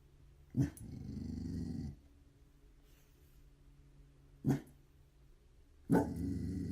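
An animal's vocalisations, three times. The first starts suddenly about half a second in and carries on as a low, rough sound for over a second. A short one comes at about four and a half seconds, and another begins near six seconds and carries on.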